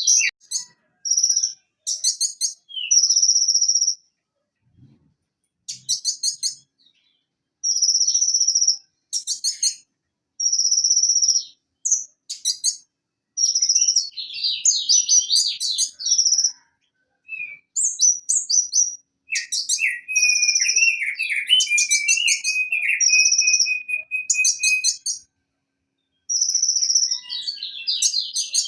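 Van Hasselt's sunbird (konin, Leptocoma sperata) singing: a run of short, high, buzzy trills about a second each, separated by brief pauses. A lower, chattering warble comes in about two-thirds of the way through.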